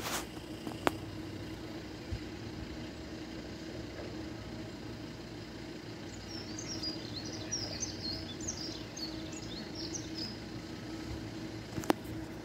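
A small bird twittering in short high chirps for a few seconds in the middle, over a steady low background hum, with a sharp click near the start and another near the end.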